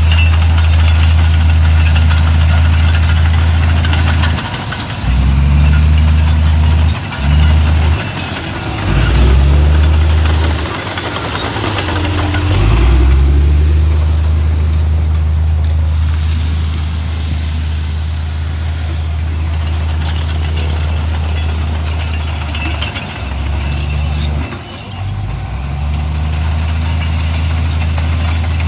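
Heavy diesel engine of earthmoving machinery running under load, its low note dropping and picking up again several times in the first half and once more later on, as the load and throttle change.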